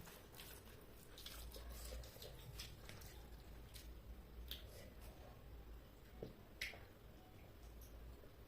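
Faint eating sounds: soft chewing and the squish of rice and chicken curry being worked, with scattered small clicks.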